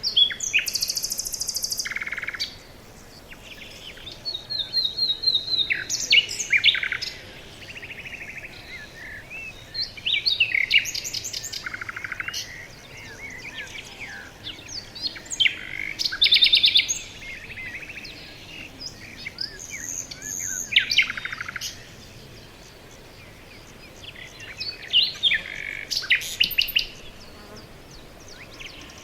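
Several songbirds singing in a forest: bursts of chirps, trills and whistled phrases come every few seconds, with short gaps between.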